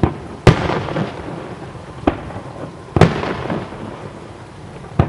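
Aerial fireworks shells bursting overhead: five sharp booms, the loudest about half a second in and at three seconds, each followed by a rumbling echo.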